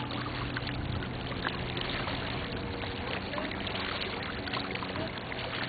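Waterside background noise: a steady hiss of water and air with a steady low hum beneath it and scattered faint sounds over it.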